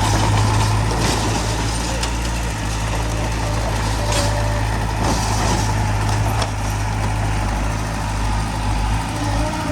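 Heavy diesel engines of earthmoving machinery running steadily, a dump truck and a small crawler bulldozer working stone at a landfill, with a short high hiss about five seconds in.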